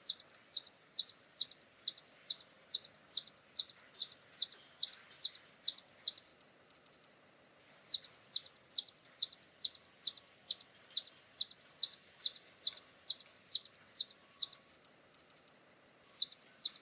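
Hummingbird singing: a steady series of short, high, sharp chips at about two a second, in three runs broken by pauses of about two seconds.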